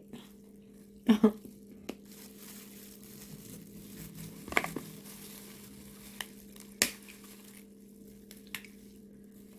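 Close-miked eating of a seafood boil: quiet wet chewing and lip smacks with a few sharp clicks, the loudest about a second in, over a steady low hum.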